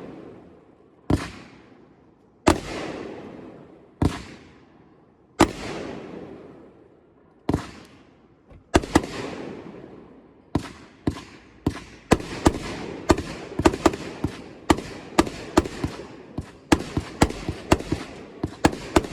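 Lava Sky consumer firework cake firing its aerial shots: single loud reports about a second and a half apart, each trailing off in a hiss, then from about nine seconds in the shots come faster and faster, several a second.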